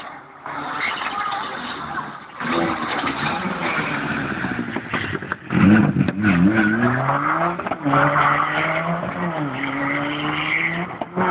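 Rally car engine. A rushing noise for the first five seconds or so, then the engine comes in loud about halfway through, its note climbing and dropping back a few times as it accelerates.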